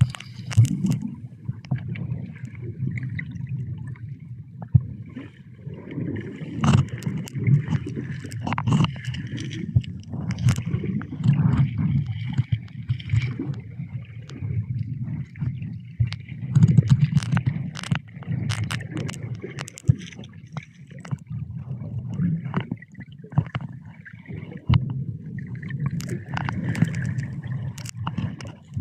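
Sea water sloshing and gurgling, as against a small boat or the shore, with many scattered knocks and clicks.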